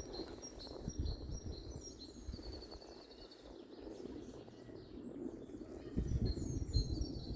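Songbirds chirping and singing: short high calls, falling notes and a quick trill of repeated notes, over a low rumbling background noise that gets louder about six seconds in.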